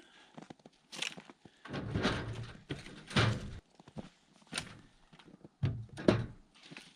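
Firewood logs thrown into a trailer: a series of dull wooden thunks and knocks, loudest about three seconds in and again about six seconds in.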